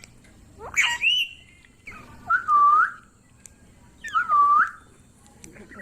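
Ringneck parrot whistling: a short rising call, then two matching whistles that each dip and rise again, about two seconds apart.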